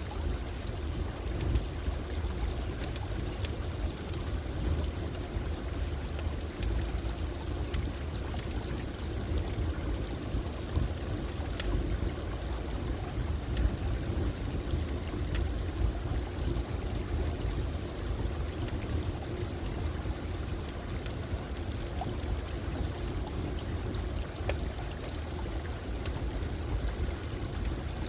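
Running water flowing steadily, with scattered faint crackles from a campfire.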